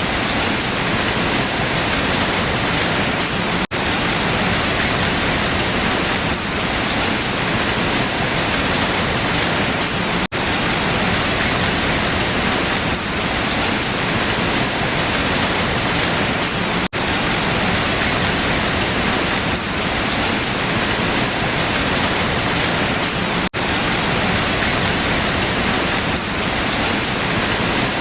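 Steady, dense rain falling on leaves, an even patter with no single drops standing out. The sound briefly drops out four times, at even intervals about six and a half seconds apart.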